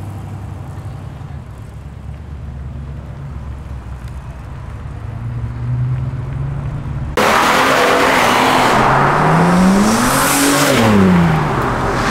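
Chevrolet Nova SS V8 rumbling at low revs as it pulls away. About seven seconds in, the sound jumps abruptly to another car accelerating hard: louder, with a rushing noise over the engine, whose pitch rises and then falls.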